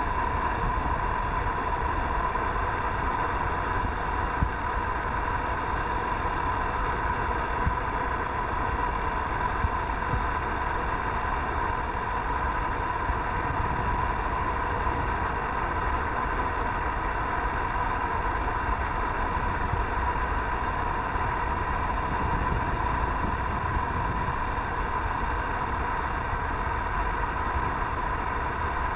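Diesel locomotives of an approaching train running steadily in the distance: an even, unbroken engine rumble with a steady hum in the middle of the range.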